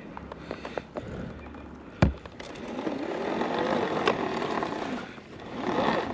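Arctic Leopard XE Pro electric dirt bike's motor whining, its pitch rising and falling with the throttle. There are scattered clicks early on and a sharp knock about two seconds in.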